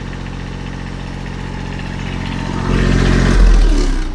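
Peterbilt 379 semi truck's diesel engine idling steadily, freshly restarted after a fan belt replacement, with an exhaust that has a small hole in the muffler. Near the end it gets louder for about a second, then the engine sound cuts off abruptly.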